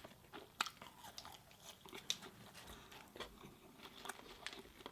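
Close-miked chewing: soft, scattered crunches and mouth clicks as a person eats.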